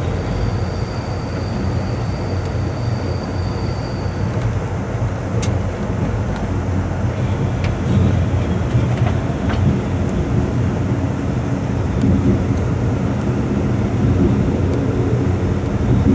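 Amtrak Coast Starlight passenger train running on the rails: a steady low rumble of wheels on track, with a few faint clicks. A thin high wheel squeal on the curve stops about four seconds in.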